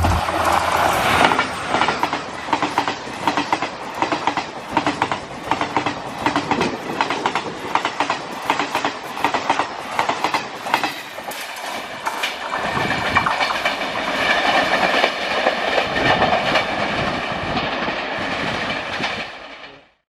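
Passenger coaches of an express train passing at speed: wheels clacking rapidly and rhythmically over rail joints, then a steadier rushing roll with a high ringing tone as the train draws away. The sound cuts off abruptly near the end.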